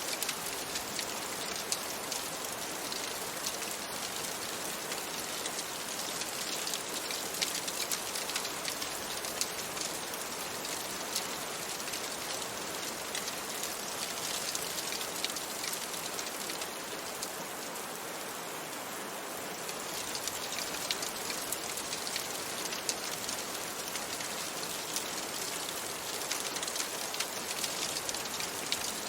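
Steady rain: an even hiss with many small, sharp ticks of drops striking a surface. The ticks thin out and the rain eases slightly for a few seconds about two-thirds of the way through.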